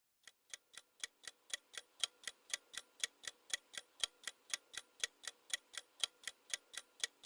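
Quiz countdown-timer sound effect: a clock ticking evenly at about four ticks a second, fading in over the first two seconds.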